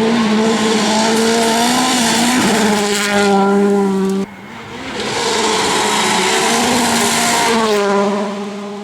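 Volkswagen Polo R WRC rally car's turbocharged 1.6-litre four-cylinder engine running hard at high revs, holding a steady high note. The sound drops suddenly about four seconds in, then builds back up and eases off near the end.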